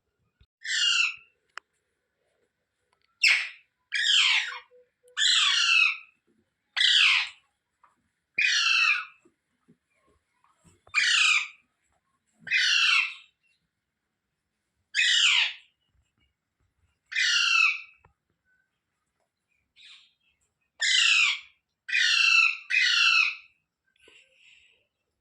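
Rose-ringed parakeet (Indian ringneck) giving a series of about a dozen loud calls, each about half a second long and falling in pitch, spaced one to two seconds apart, with three in quick succession near the end.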